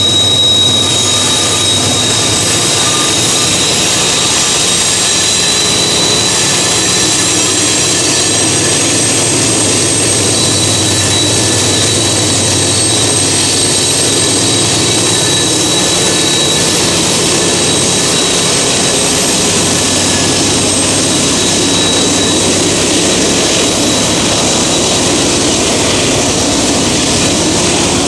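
Diesel-electric freight locomotives and wagons passing close at speed, a loud steady rumble of engines and rolling stock. Thin, high-pitched squealing from the steel wheels on the curving track rides over it.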